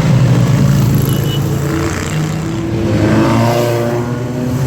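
Motorcycle engines running loudly, with one engine's pitch sweeping about three seconds in, as a bike revs or rides past.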